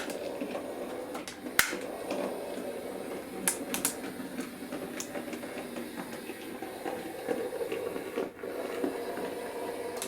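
Bachmann Class 03 model shunting locomotive running slowly, its small electric motor whirring steadily, with sharp clicks from the wheels over rail joints and point frogs a few times. The whirr drops out for an instant about eight seconds in.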